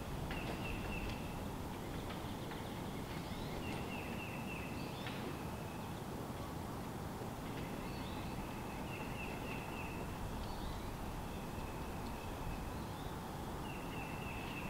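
A bird repeating a short, rapid, high trill every two seconds or so over a steady low rumble of outdoor background noise.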